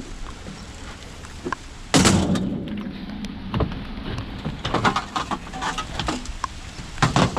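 A loud bang about two seconds in, followed by a series of shorter knocks and rattles, like objects being handled and set down.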